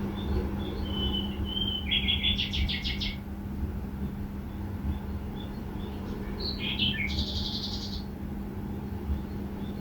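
A bird singing two short bursts of quick, high chirping notes, about two seconds in and again about seven seconds in, with a few single chirps between. A steady low hum and rumble runs underneath.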